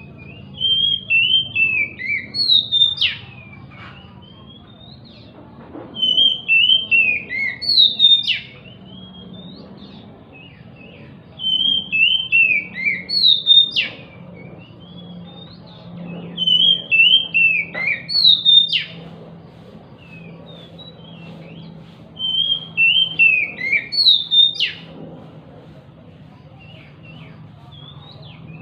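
Oriental magpie-robin (kacer) song used as a lure: one loud phrase of falling whistled notes ending in a sharp upswept note, repeated five times about every five and a half seconds, with faint chirps between.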